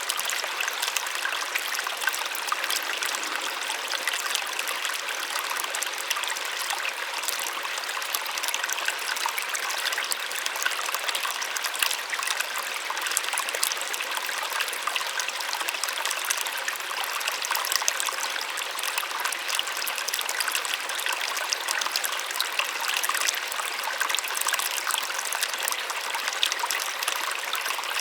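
Small waterfall splashing steadily, a constant even rush of falling water with a light, bright sound and no low rumble.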